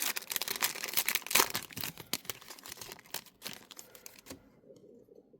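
Trading-card pack wrapper and cards being handled: crinkling and rustling with many small clicks, dying away after about four seconds.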